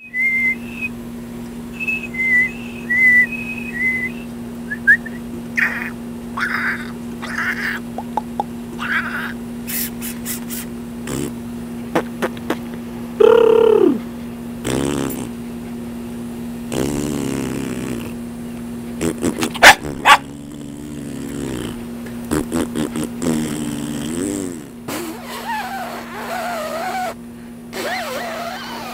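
Jack Russell Terrier making a string of odd vocal noises: whines and wavering, bending calls, with scattered clicks. There is a run of short high tones in the first few seconds and a steady low hum underneath.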